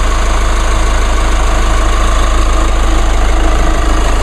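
Chevrolet Colorado's 2.8-litre four-cylinder Duramax turbo diesel idling steadily, nice and quiet for a diesel.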